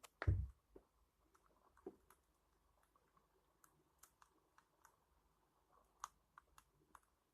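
Faint, sparse clicks and ticks at irregular intervals, with a single low thump about a quarter of a second in.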